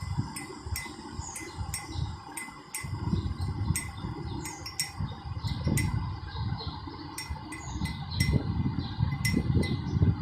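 Small metal bells on cattle jingling and clinking repeatedly at irregular intervals, over a low uneven rumble.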